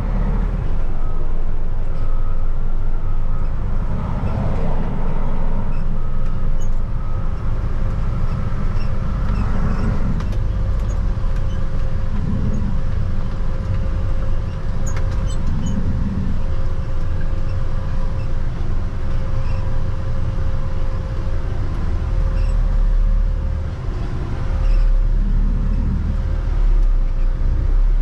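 Stone slinger truck's engine running steadily under load with a low rumble and a constant whine, while it unloads gravel.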